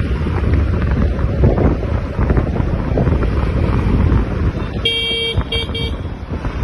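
Wind buffeting the microphone over the steady road rumble of a moving motorcycle, with a vehicle horn giving three short toots about five seconds in, the first the longest.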